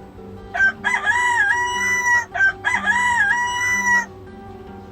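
A rooster crowing twice, each a long cock-a-doodle-doo of about a second and a half that rises, holds and drops at the end.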